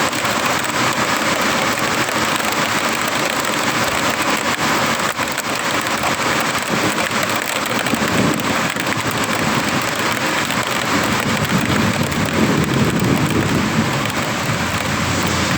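Heavy rain pouring steadily in a thunderstorm, with low rumbles of thunder swelling about halfway through and again near the end.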